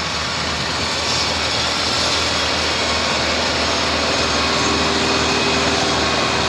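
Tractor engine running steadily with an even low drone.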